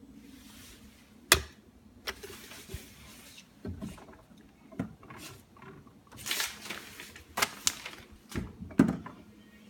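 A series of sharp clicks and knocks with short rustling noises between them, the loudest click about a second in, over a low steady hum.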